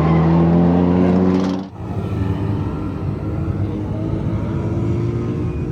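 BMW E36 drift car's engine running at a steady, low speed, heard from inside the cabin. About a second and a half in it drops abruptly to a quieter, steady engine note.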